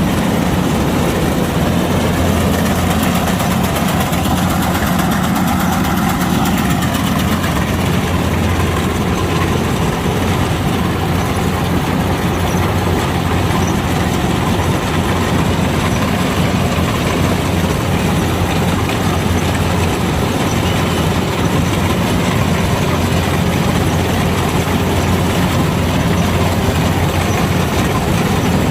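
Kubota DC-105X combine harvester running steadily, its engine and machinery making a constant low drone.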